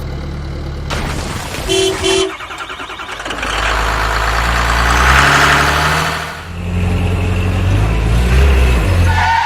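Cartoon truck sound effects: an engine running low and steady, with two short horn toots about two seconds in and a longer horn sounding near the end.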